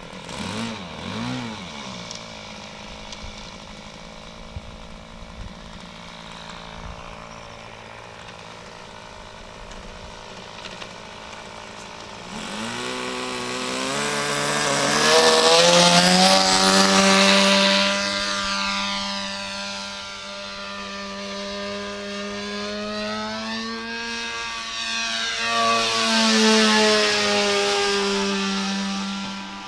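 RC trainer model airplane's engine running steadily at low throttle, then opened up about twelve seconds in with a quick rise in pitch. It gets loud as the plane takes off and passes, its pitch rising and falling on the passes.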